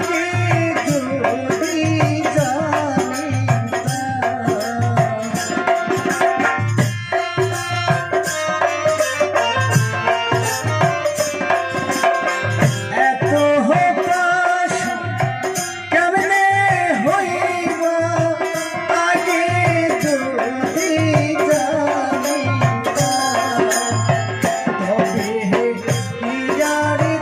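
Instrumental interlude of a Bengali folk song: a wavering melody instrument plays over a steady hand-drum beat.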